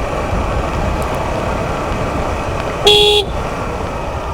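Steady riding noise of a motorcycle on the move, mostly wind and road rush, with a single short horn beep about three seconds in.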